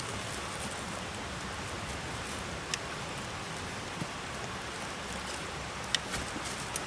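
Steady rain falling, with a few sharp drip ticks on top, about four in all.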